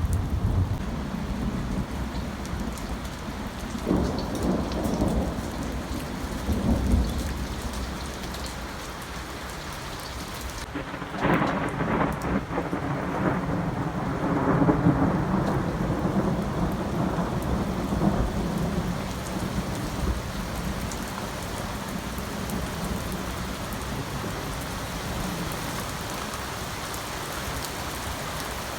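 Thunderstorm with steady rain falling. Thunder rumbles about four seconds in, then a sharper clap about eleven seconds in rolls on for several seconds before fading.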